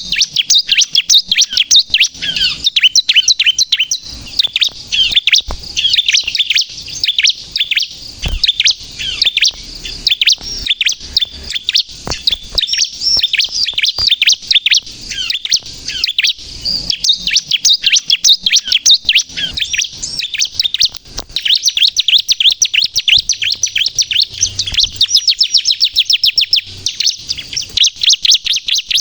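Bar-winged prinia (ciblek, crystal colour morph) singing hard and without pause: a rapid stream of sharp, high chirps that quickens into fast trills near the end.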